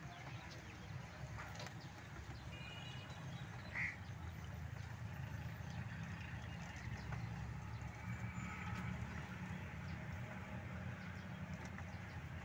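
Faint bird calls over a steady low rumble, with one short chirp about four seconds in as the loudest sound.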